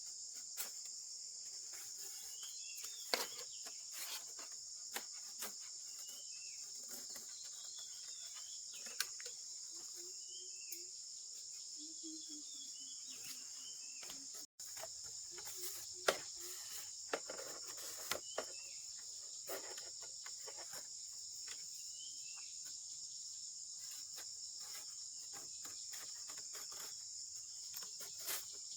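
Steady high-pitched chorus of crickets, with scattered sharp clicks and knocks and a few short chirps in the first several seconds. The sound drops out for an instant about halfway through.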